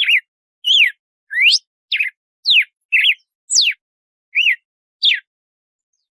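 Red-cowled cardinal (galo-de-campina) singing its 'açoite' song: about nine clear whistled notes, roughly two a second, some sweeping up in pitch and others sweeping down, stopping about five seconds in.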